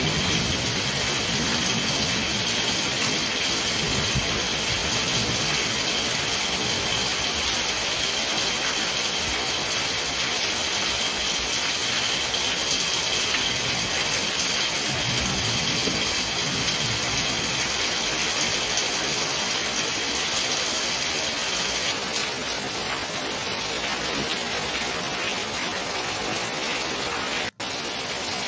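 Heavy rain pouring down steadily as a dense, even hiss of water. The sound cuts out for an instant about a second before the end.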